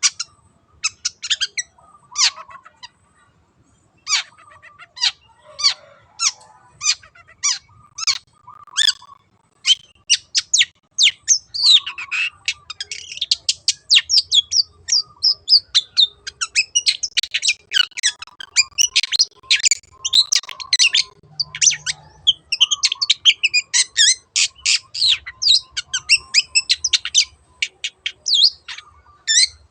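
Long-tailed shrike (cendet) singing in quick, sharp repeated notes, the 'teot teot' song, breaking off briefly about three seconds in and then running on as a dense, fast chatter.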